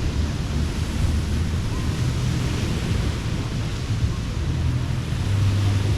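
Ocean surf washing on a beach, a steady rush, with wind buffeting the microphone in uneven low rumbles.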